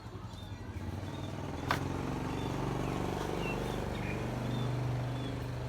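A low, steady engine hum that grows louder after a sharp click nearly two seconds in, with faint short high chirps scattered over it.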